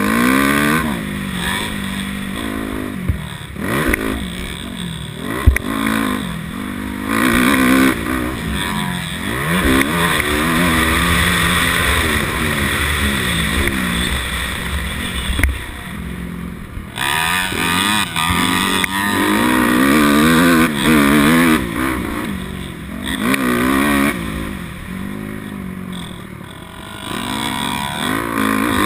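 250cc motocross bike engine being ridden hard, revving up and falling back again and again through the whole stretch. A sharp knock cuts through about five seconds in.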